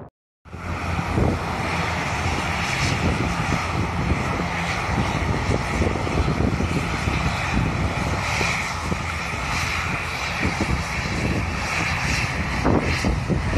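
Jet airliner engines running with a steady high whine over a low rumble, starting abruptly after a moment of silence, with wind buffeting the microphone.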